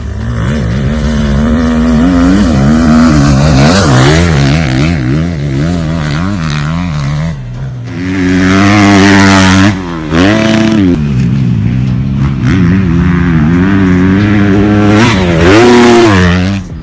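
Off-road vehicle engine revving hard, its pitch climbing and falling again and again, with a short break about halfway through.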